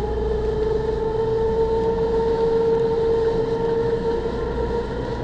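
A motor or vehicle engine running with a steady hum that rises slightly in pitch, over a low rumble.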